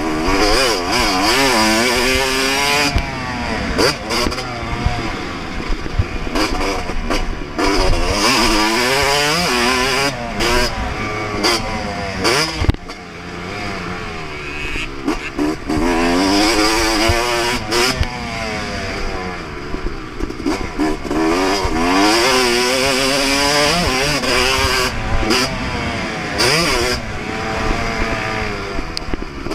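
Yamaha YZ250 two-stroke single-cylinder motocross engine at full throttle. Its pitch climbs steeply again and again as it accelerates through the gears, then falls back between the pulls.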